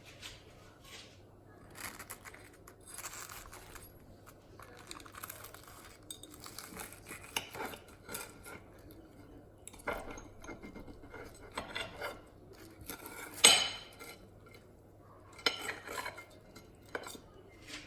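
Dishes and metal cutlery clinking and scraping on and off, with one louder clatter about thirteen and a half seconds in.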